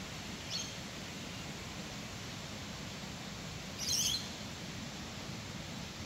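A bird chirps twice: a short faint call about half a second in, then a louder call of several quick high notes around four seconds in, lasting about half a second. A steady background hiss runs underneath.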